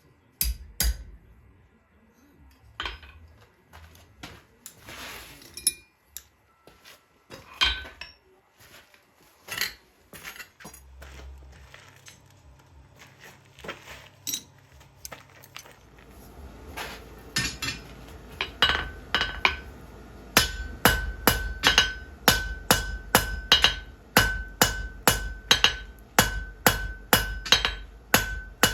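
Hammer striking metal on an anvil: scattered separate knocks and clinks at first, then about two-thirds of the way in a steady run of ringing blows, a little over two a second, typical of forging hot iron.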